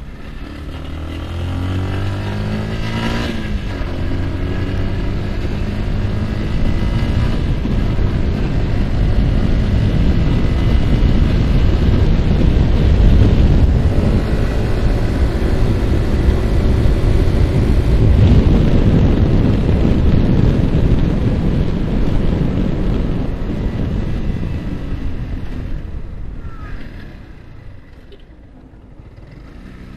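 Yamaha R15's single-cylinder engine revving up under acceleration, with a gear change about three seconds in, then heavy wind rushing over the microphone at speed. Near the end the wind and engine die down as the bike slows, then pick up again.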